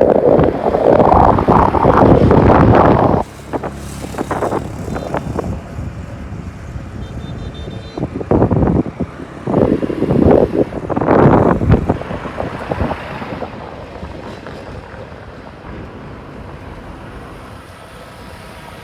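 Road vehicles passing close by, in two loud surges: one over the first three seconds and another from about eight to twelve seconds in, with a quieter steady rush between and after.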